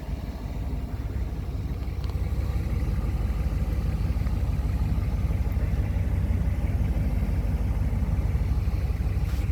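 6.5-litre turbo diesel V8 of a 1998 Chevrolet 2500 idling with a steady low rumble, the air conditioning switched on. The sound grows a little louder over the first two seconds, then holds even.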